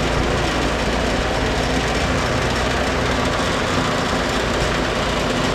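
Steady running noise of a vehicle engine with an even rushing sound over it, unbroken throughout.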